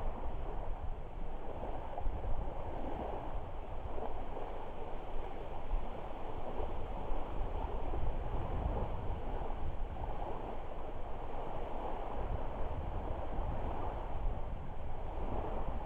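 Steady rushing wash of wind and lake water lapping at the shore, with a low rumble of wind on the microphone.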